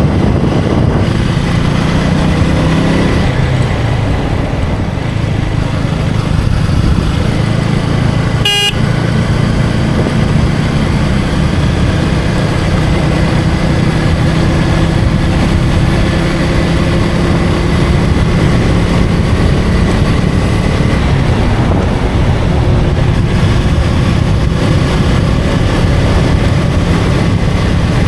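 KTM Duke 250's single-cylinder engine running on the road at speed, climbing in pitch over the first few seconds as it accelerates and then holding steady. A vehicle horn gives one short toot about eight seconds in.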